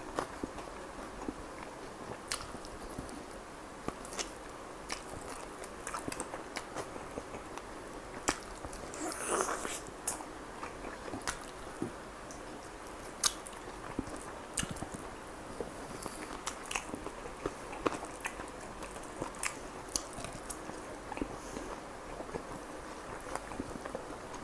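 Close-up mouth sounds of someone eating chicken kalmi kebab: steady chewing with frequent small wet clicks and smacks. A longer crunchy, rustling stretch comes about nine seconds in, and a sharp click about thirteen seconds in.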